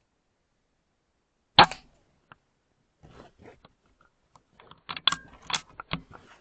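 A single sharp, muffled crack from a moderated Weihrauch HW100 .177 PCP air rifle firing, about a second and a half in. It is followed by a string of small clicks and knocks, louder and closer together near the end.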